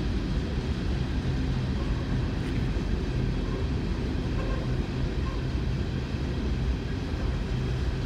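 Coal train's hopper cars rolling past, a steady low rumble of wheels on the rails.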